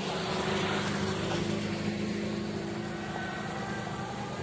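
Car engine running steadily, a low even hum, with a little more noise in the first second and a half.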